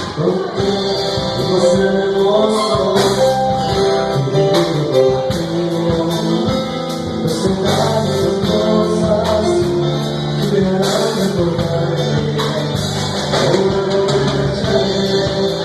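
Live band music with guitar and drums, a passage between the sung verses of a Spanish-language romantic ballad.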